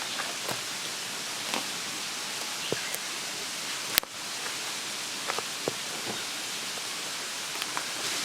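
Steady outdoor hiss with scattered small clicks and knocks, and one sharp click about four seconds in.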